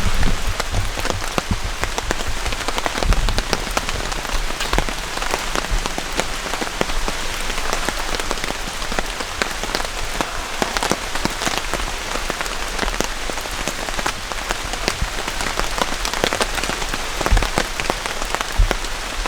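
Steady heavy rain falling, a dense hiss full of single drop ticks, with a few dull low knocks: one about three seconds in and two near the end.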